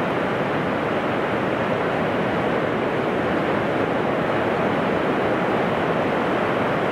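Pacific Ocean surf washing in over a flat sandy beach: a steady, unbroken hiss of waves.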